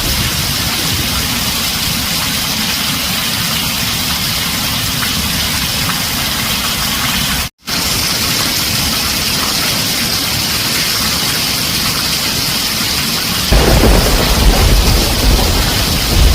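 Heavy rain drumming on a tin roof, a steady dense hiss. It cuts out completely for a split second about halfway, and a low rumble of thunder rolls in near the end.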